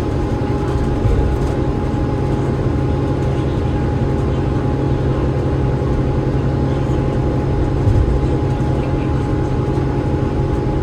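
Cummins ISL8.9 six-cylinder diesel engine and ZF EcoLife six-speed automatic gearbox of an Enviro500 MMC double-decker bus running steadily: a deep, even drone with a constant thin high whine over it. Two brief bumps come about a second in and again near the end.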